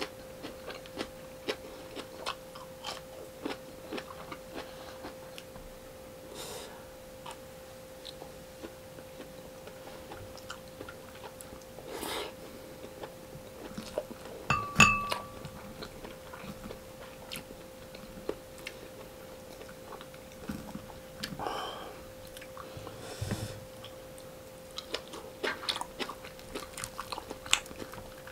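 Close-miked eating sounds: chewing and biting with many small wet clicks and smacks, some crunching, as fried fish, rice and vegetables are eaten by hand. A steady faint hum runs underneath, and a single louder sharp sound comes about halfway through.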